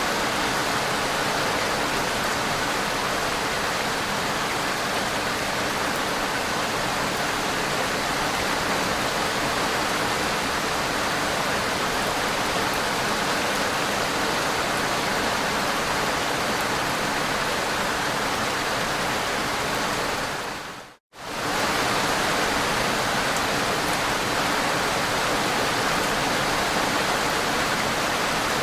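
Steady, even rainfall hiss. About three quarters of the way through it fades out to silence for a split second and comes straight back at the same level.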